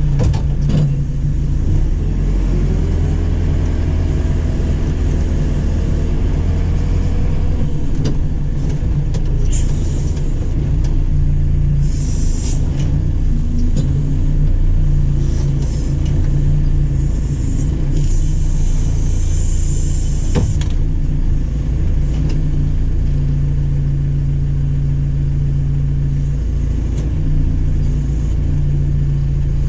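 JCB 4CX backhoe loader's diesel engine running steadily under working load, its pitch rising and falling as it works. Short bursts of higher-pitched noise come twice, around the middle.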